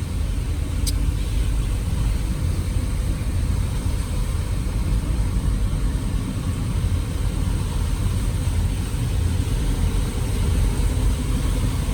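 A car driving, with a steady low engine and road rumble. A short tick sounds about a second in.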